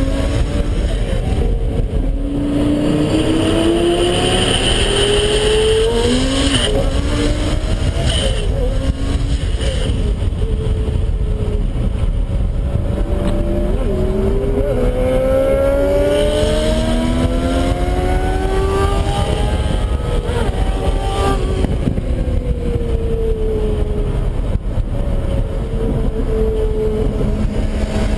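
Heffner twin-turbo Lamborghini Gallardo's V10 engine accelerating hard through the gears: its pitch climbs again and again, dropping back at each upshift. Near the end the pitch falls as the car slows.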